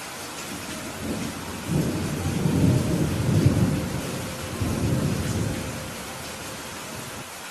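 Steady heavy rain with a roll of thunder rumbling in about a second in, swelling to its loudest a couple of seconds later with a second swell, then dying away near the end.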